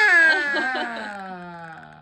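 A toddler's loud, high-pitched drawn-out "aaah" that slowly falls in pitch and fades over about two seconds, with a lower adult "aah" joining about half a second in.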